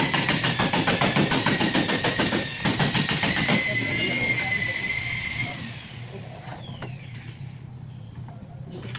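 A motor running with a steady high whine and rapid, even clicking, then winding down in pitch and stopping about six to seven seconds in.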